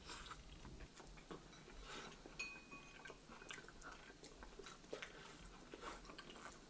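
Faint chewing while eating steamed buns, with scattered soft clicks and a short, light clink of tableware about two and a half seconds in.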